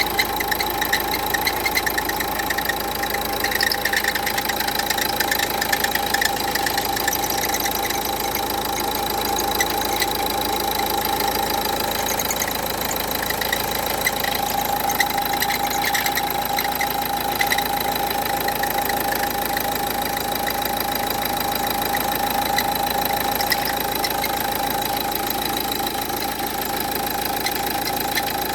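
Renault Duster's 1.5 dCi diesel engine idling with a steady whine over its clatter: the strange noise of a failing alternator pulley.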